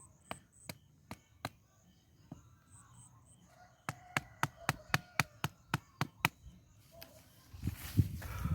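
A series of sharp knocking strikes, like chopping: a few spaced-out blows, then a quick run of about four a second in the middle. Faint high chirping sits under the first half.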